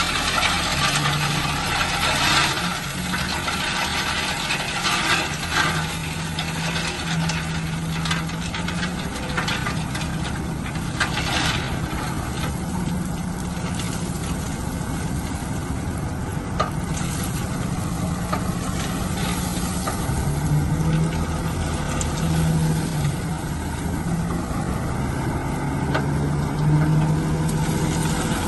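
Heavy construction machine's diesel engine running steadily, its pitch shifting slightly now and then, with occasional sharp knocks and rattles of the machine at work.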